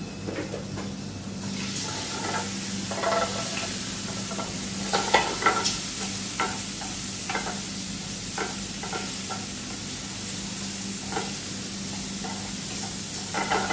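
Finely chopped calamari frying in hot olive oil in a frying pan. It sizzles steadily from about a second and a half in, with scattered pops and clinks as a utensil stirs it around the pan.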